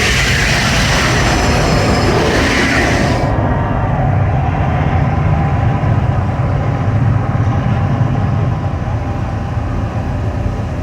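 Rushing hiss from the Mirage volcano show's effects over a deep rumble. The hiss cuts off suddenly about three seconds in, and the steady low rumble carries on.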